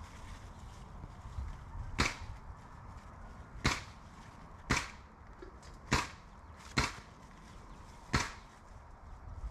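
Cucumbers being picked off the vine: six sharp snaps at uneven gaps of one to one and a half seconds.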